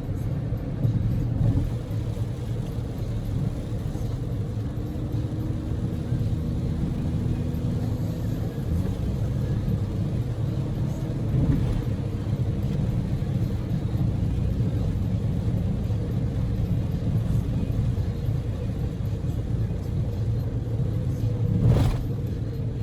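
Cabin noise of a Daihatsu Move L150S kei car on the move: a steady low rumble of its 660 cc three-cylinder EF-VE engine and tyres on the road, with two brief louder knocks, one near the middle and one near the end.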